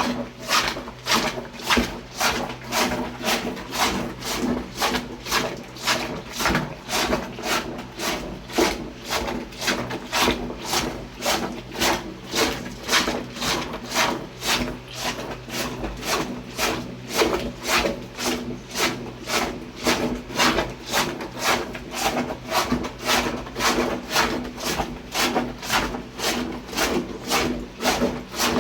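Homemade plunger washer, a plastic bottle cut open at the bottom and punched with holes, pumped up and down by hand in a bucket of water and rags, sloshing in a steady rhythm about twice a second.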